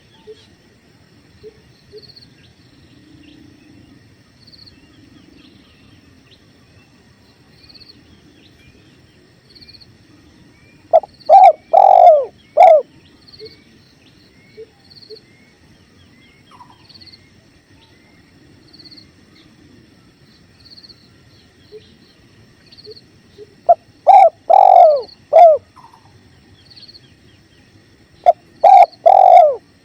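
Spotted dove (tekukur) cooing: three phrases of several short, falling coos, about 11, 24 and 28 seconds in. Between them a faint steady river flow and a small bird's regular high chirps.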